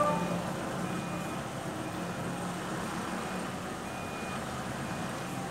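Steady vehicle noise with a low engine hum, and faint short beeps repeating about once a second, like a truck's reversing alarm.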